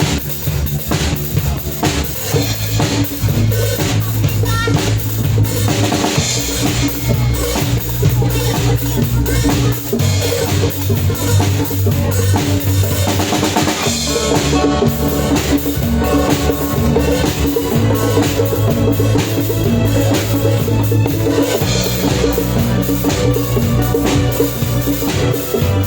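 A band playing a song, with a drum kit hitting steadily over a low bass line that changes note every couple of seconds; no singing.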